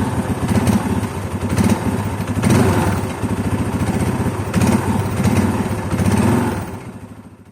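Yamaha Scorpio's 225 cc single-cylinder four-stroke engine idling through an aftermarket full-system exhaust, blipped up several times in short swells. The sound fades out near the end.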